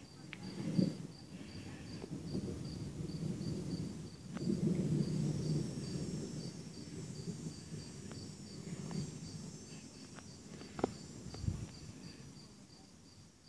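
Distant thunder rumbling low, swelling about four seconds in and slowly fading, over insects chirping steadily at about four chirps a second.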